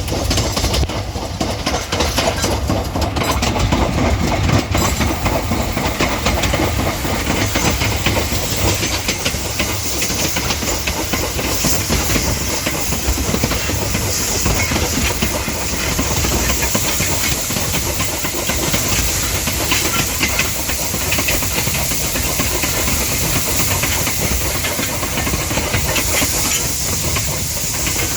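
Steam train on a heritage railway: a steady hiss of steam with the clatter of rail wheels.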